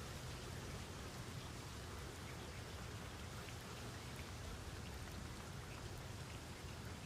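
Steady rain falling, an even patter with individual drops ticking now and then over a low rumble.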